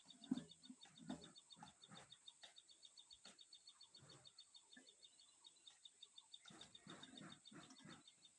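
Near silence: faint outdoor background with a steady, rapid, high-pitched chirping several times a second and a few faint low knocks.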